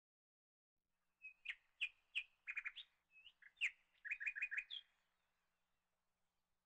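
Small bird chirping: a string of short, sharp chirps for a few seconds from about a second in, with a quick run of about five notes near the end.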